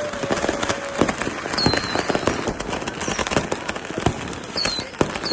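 Firecrackers and fireworks going off all around, with dense, overlapping bangs and crackling. A few short high whistles fall in pitch, about one and a half seconds in and again near the end.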